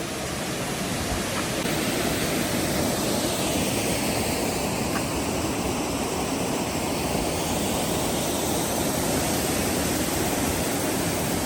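A waterfall rushing: falling water makes a steady, even noise that grows slightly louder over the first couple of seconds.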